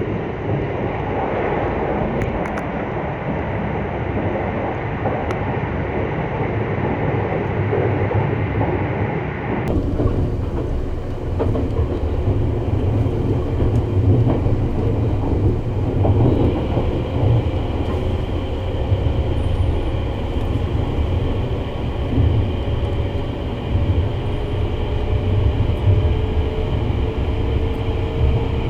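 Sunrise Seto sleeper train, a 285 series electric multiple unit, running along the line with a steady rumble of wheels on rail. About ten seconds in, the sound changes abruptly. In the second half, a faint whine rises slowly in pitch.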